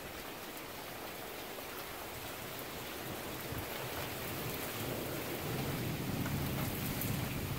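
Steady heavy rain falling on surfaces during a thunderstorm, with a low thunder rumble building in the second half.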